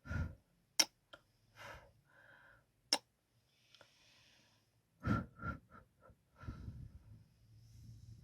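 Kissing sounds: sharp lip smacks and wet mouth noises, with a soft breath partway through.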